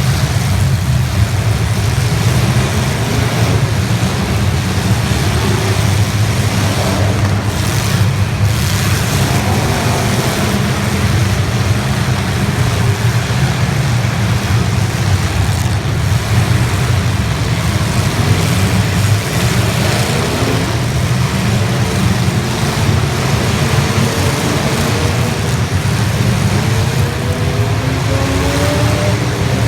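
Demolition derby cars' engines running loudly together, with one engine revving up, its pitch rising, near the end.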